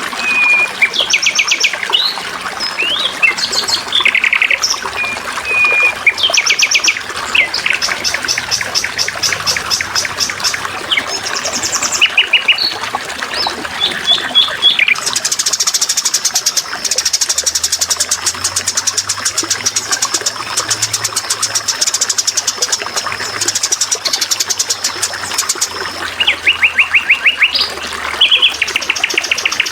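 Several songbirds chirping and singing fast trills, one long rapid trill running through the middle, over a steady trickle of water.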